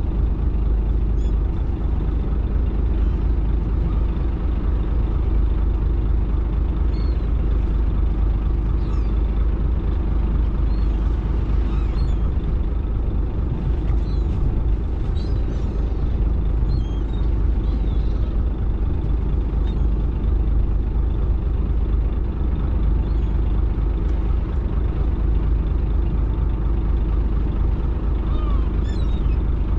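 Fishing boat's engine running steadily, a loud low drone, with faint short high squeaks here and there.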